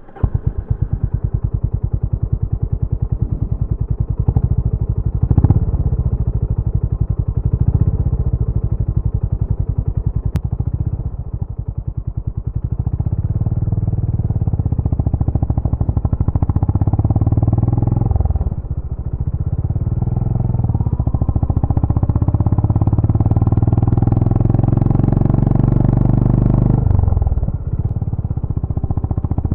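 Honda GB350's air-cooled single-cylinder engine firing up and running, its exhaust beating out separate pulses. It is blipped briefly about five and eight seconds in, then runs louder at higher revs through most of the second half, easing off near the end.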